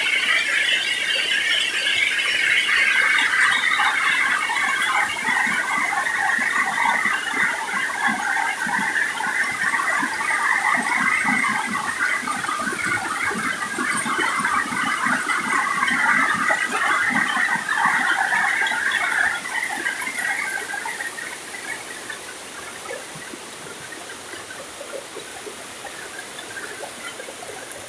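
Stream water rushing and gurgling over rocks, swollen after heavy rain; it fades to a quieter rush about twenty seconds in.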